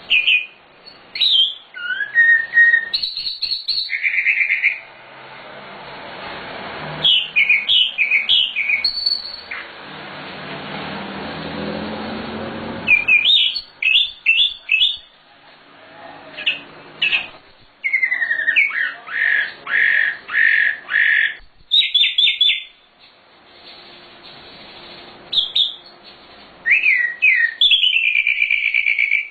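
Songbird, a sikatan londo (flycatcher) recording used for bird training, singing in varied bursts of whistled notes, fast trills and repeated chirps separated by short pauses. A broad rushing noise rises and falls under the song from about five to thirteen seconds in.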